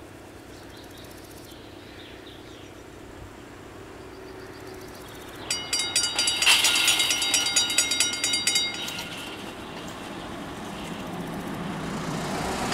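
Railroad crossing warning bells ringing, a rapid even train of strikes with a bright metallic tone, starting about five and a half seconds in and stopping about three seconds later.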